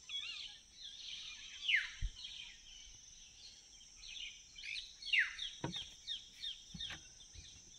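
Wild birds calling in open forest: many quick, downward-sliding whistled notes and a few warbling phrases, over a steady high hiss, with a couple of faint knocks near the end.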